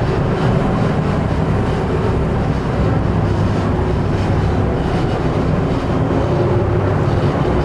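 A ferry's engines running with a steady low hum under an even rushing noise.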